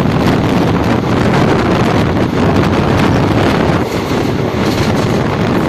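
Loud wind buffeting the microphone outside a moving express train's open door, over the steady rumble of the coaches running along the rails.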